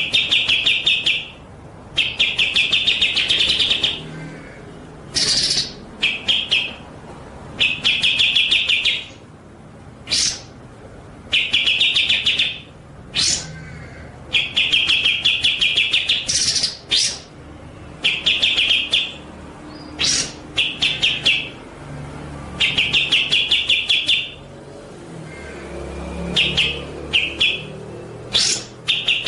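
A songbird singing over and over: rapid pulsed trills about a second long, alternating with short sharp high notes.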